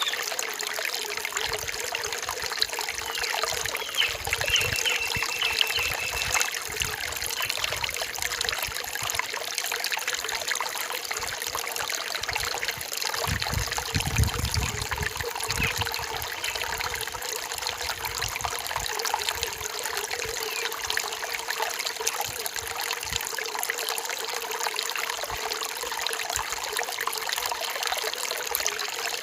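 Rain-forest stream trickling and babbling over rocks in a steady wash, with a short high steady note a few seconds in and some low rumbling near the middle.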